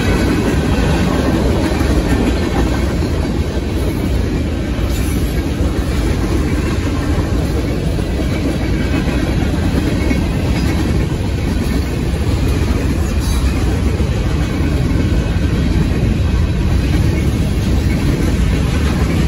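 Freight cars of a Union Pacific manifest train rolling past at speed: the loud, steady noise of steel wheels on the rails.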